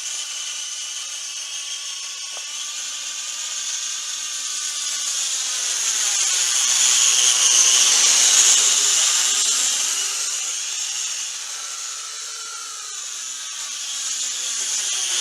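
Toy quadcopter's small electric motors and propellers whining in flight. The pitch sinks and swells, dipping to its lowest and loudest about halfway through, then rises again.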